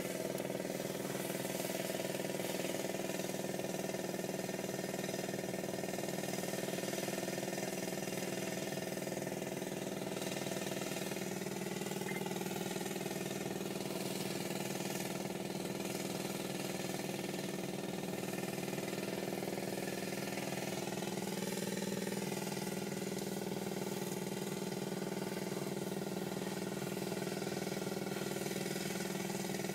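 An engine idling steadily, a constant hum with a few slight shifts in pitch.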